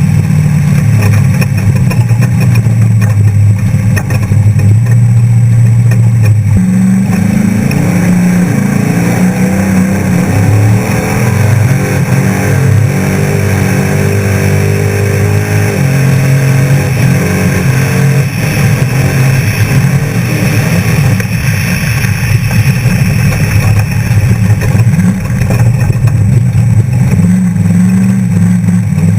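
Off-road trophy truck's engine running hard at speed, its pitch climbing and dropping again and again as it accelerates and eases off, over a constant noisy rush.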